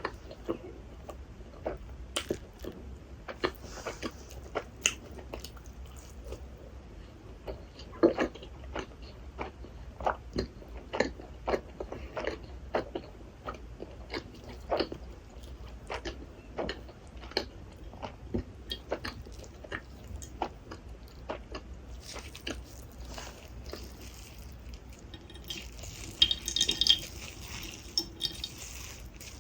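Close-up mouth sounds of someone eating rasgulla, the soft syrup-soaked cheese balls: wet chewing with frequent small smacks and squishes, about one or two a second. A louder, brighter burst of sound comes near the end.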